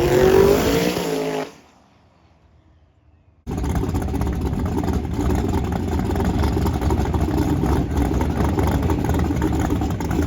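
Drag car engine revving up and back down briefly. After about two seconds of near quiet, a loud, dense engine noise cuts in suddenly and runs on steadily.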